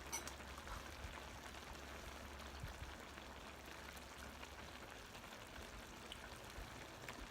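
Pot of budae jjigae bubbling over a tabletop flame: a faint, steady fizzing and crackling simmer.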